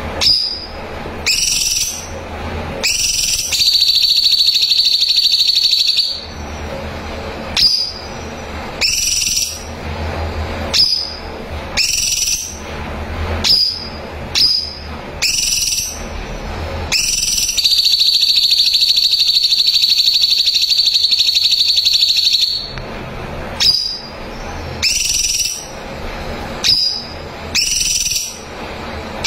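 Cucak cungkok song: short, sharply rising whistled notes repeated about once a second, broken twice by long, loud, rapid trills. The first trill lasts about two and a half seconds and comes a few seconds in; the second lasts about five seconds and comes past the middle.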